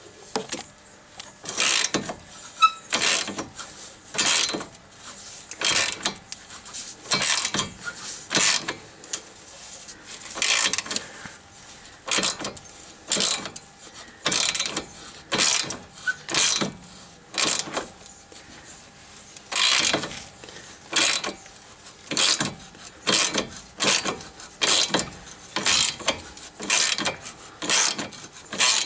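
Ratchet wrench clicking in a long run of short, even strokes, a little over one a second, as the nut comes off a sway bar link stud.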